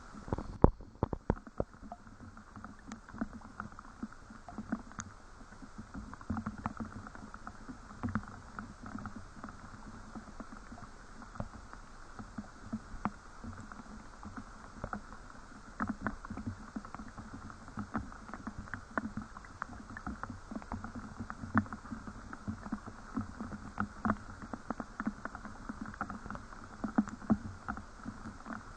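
Rain falling, with an irregular patter of drops and drips over a steady faint hiss, and a few louder knocks about a second in.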